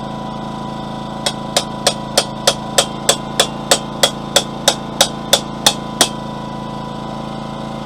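A blacksmith's hammer tapping hot steel: about sixteen light, evenly spaced strikes at roughly three a second, spreading the split end of a plain steel bar. A generator runs steadily underneath.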